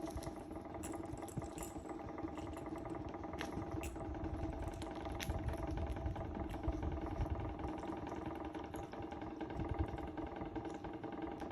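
Steady motor hum, like an engine idling, with scattered short clicks.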